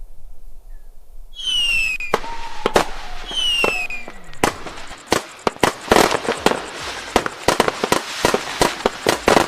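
Fireworks: two whistling shells, each a falling whistle, then from about halfway a rapid run of sharp bangs and crackles.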